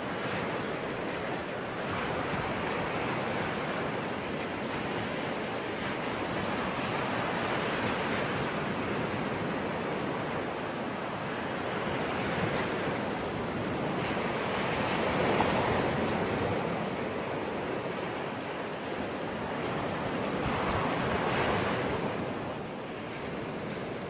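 Sea waves breaking and washing on a shore, a steady rushing surf that swells in several slow surges, the strongest about fifteen and twenty-one seconds in.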